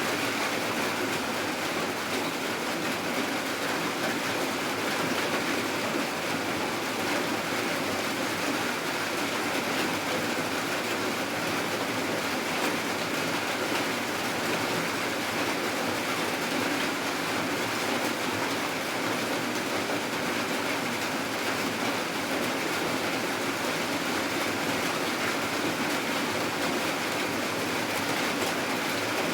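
Steady rain falling: an even, unbroken hiss with little low rumble.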